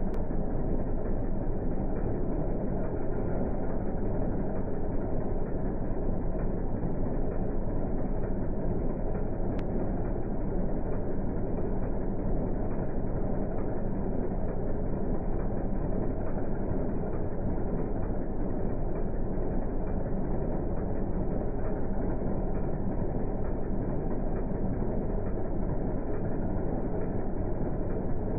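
Turbocharged Audi S2 quattro engine idling steadily, with a muffled sound.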